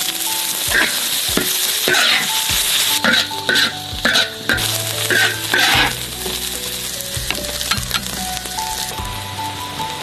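Food sizzling as it fries in hot oil in a pan, with a spatula stirring and scraping in short strokes. The sizzle drops away about nine seconds in.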